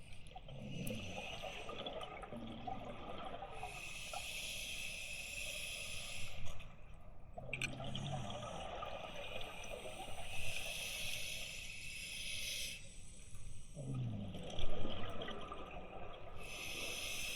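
A scuba diver breathing through a regulator underwater: three slow breaths, each a gurgling rush of exhaled bubbles followed a few seconds later by the hiss of air drawn through the regulator on the inhale.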